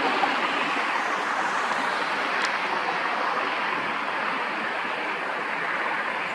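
Jet airliner passing, a steady rush of engine noise.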